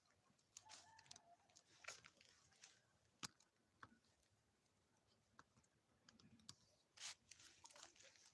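Near silence broken by faint scattered clicks and brief rustles, with one sharper click about three seconds in and a cluster of rustling near the end.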